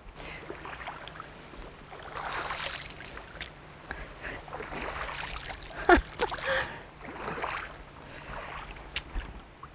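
Rubber boots wading through a shallow, fast stream, the water swishing and sloshing in swells with each step over the running water, with one sharp knock about six seconds in.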